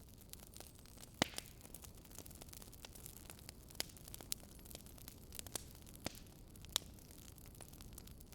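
Fireplace crackling: a low steady hiss with irregular sharp pops, two of them louder, about a second in and near the end.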